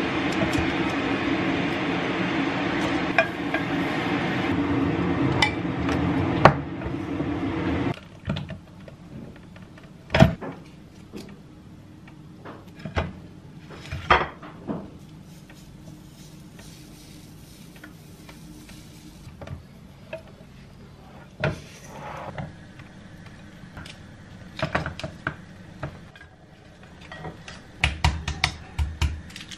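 Kitchen dishes and cutlery clinking and knocking as food is prepared. A steady rushing noise runs underneath for the first eight seconds and then stops suddenly, leaving scattered separate clinks and knocks.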